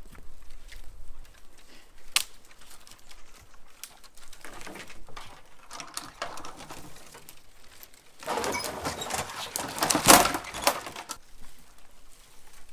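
Branches and twigs rustling and crackling for about three seconds near the end, with scattered sharp knocks before it and one loud snap or knock in the middle of the rustling.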